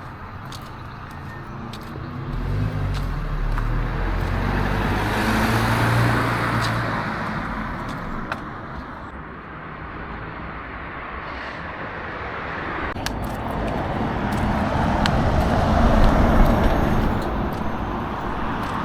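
Road traffic: a car passes with its engine and tyre noise swelling and fading about five or six seconds in, and a second vehicle swells past around sixteen seconds in.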